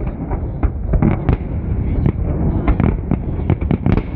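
Fireworks salute: a rapid, irregular run of loud shell bursts and bangs, several a second, over a continuous low rumble.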